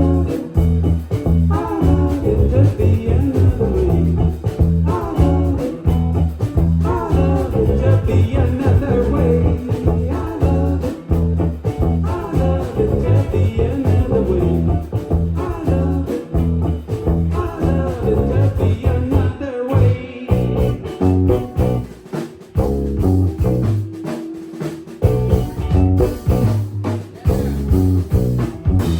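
Live band playing a song, with electric guitar, bass and drums. The bass and drums drop away for a few seconds past the middle and then come back in.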